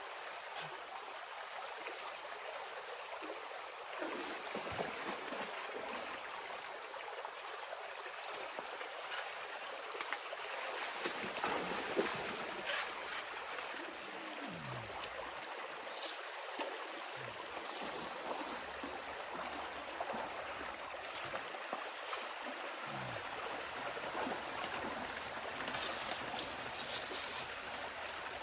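Steady rush of river water flowing through and around a sluice box set in the current, with a few faint clicks.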